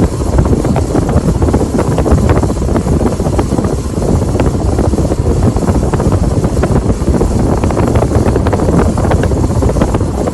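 53-inch Casablanca Halogen Star ceiling fan running with five blades, its airflow buffeting the microphone as a steady, loud, rumbling whoosh.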